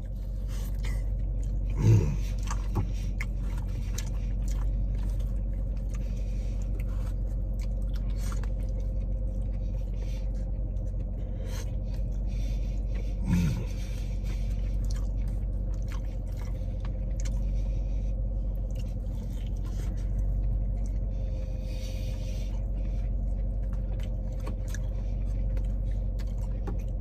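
A man chewing and crunching a bite of fried-chicken-crust pizza, with scattered crisp clicks of chewing and the plastic fork, over a steady low hum inside a car. A brief hum of the voice comes twice, about 2 seconds in and about 13 seconds in.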